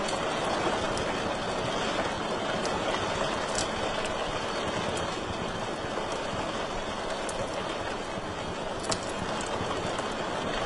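Wood fire burning in a fireplace: a steady rushing hiss of flame with scattered sharp crackles and pops, a few seconds apart.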